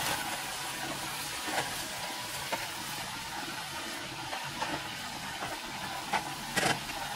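Egg and bitter melon omelette frying in oil in a skillet, a steady sizzling hiss, while a wooden spatula scrapes and taps against the pan as the omelette is turned over. A few short knocks stand out, the loudest near the end.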